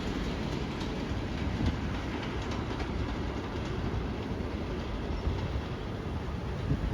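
NYC Subway R188 train running on the IRT Flushing Line, a steady rumble of wheels on rail that eases slightly.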